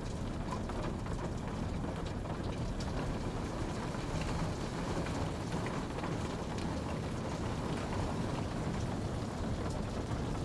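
Steady rain falling, a continuous even rush with scattered small drop ticks.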